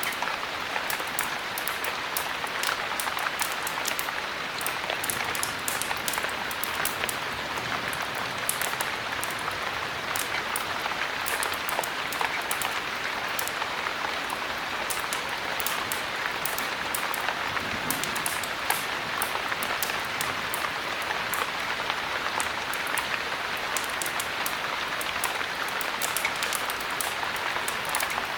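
Steady heavy rain: a continuous even hiss with many small sharp ticks scattered throughout.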